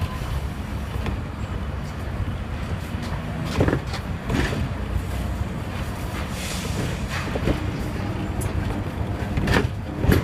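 Hong Kong double-decker electric tram running, a steady low rumble broken by a few sharp clacks, about four seconds in and again near the end.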